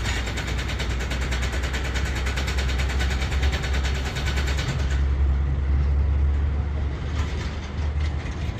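An engine running steadily with a deep low rumble, with a fast, even clatter over it that cuts off about five seconds in.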